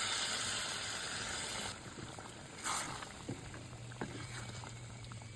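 Hiss of liquid in a hot cooking pan for about two seconds. A second short hiss follows, then a few light clicks, with a low steady hum coming in near the end.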